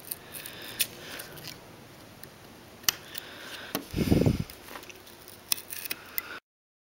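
Small clicks and faint scraping of an X-Acto hobby knife cutting masking tape on a rifle receiver, with a dull handling bump about four seconds in; the sound cuts off to silence near the end.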